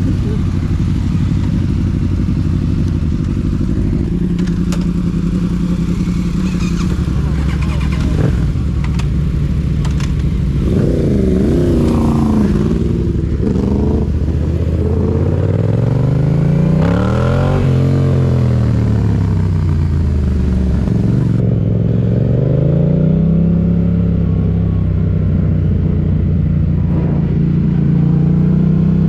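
Motorcycle engine running steadily, then revving up and down repeatedly from about ten seconds in, in long rising and falling sweeps of pitch, before settling to a steadier run near the end.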